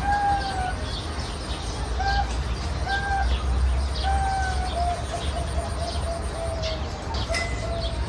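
Birds singing: short, clear whistled notes repeat about once a second, then run together into a quick string of notes about halfway through. Faint high chirps from other birds sound in between.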